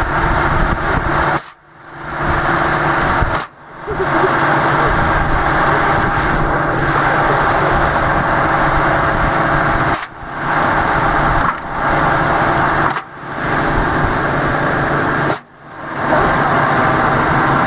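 A loud motor running with a steady, noisy whine, cut off sharply about five times and coming back up within a second each time.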